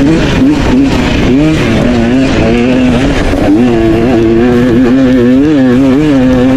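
Dirt bike engine running hard on a trail ride, its pitch rising and falling again and again with the throttle.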